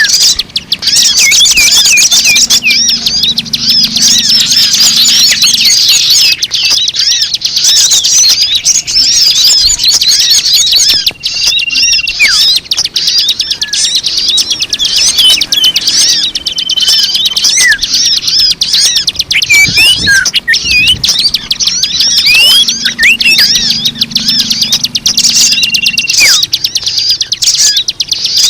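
Dense chorus of many small birds chirping and twittering rapidly, with a short held whistle note recurring every few seconds: a bird-lure (pemikat) recording meant to draw in birds of all kinds.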